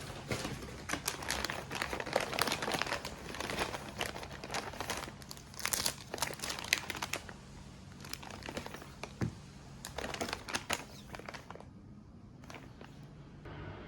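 Packaging being handled and crinkled in a small room, a dense run of irregular crackles and rustles that thins to a few scattered clicks near the end.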